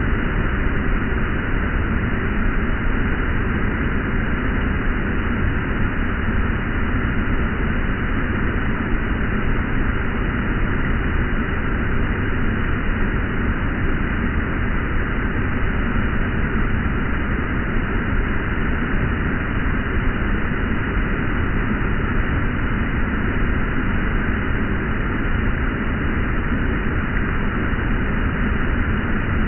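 Steady rush of swollen stormwater pouring down an earthen dam's spillway.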